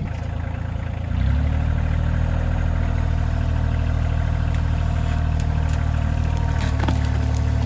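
Kioti CK2610 compact tractor's three-cylinder diesel engine running, revving up and getting louder about a second in, then holding steady.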